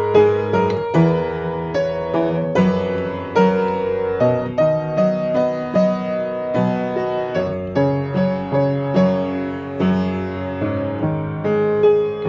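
Solo piano playing a slow melody over chords, each note struck and then fading, with a steady bass line underneath.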